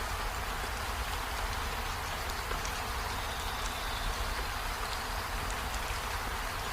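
Steady rain falling, an even hiss with faint scattered drop ticks over a low rumble.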